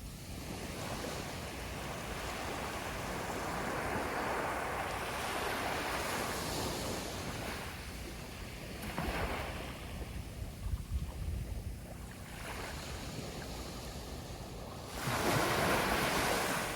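Sea waves breaking and washing up a beach, in several swells that rise and fade, the loudest surge coming near the end.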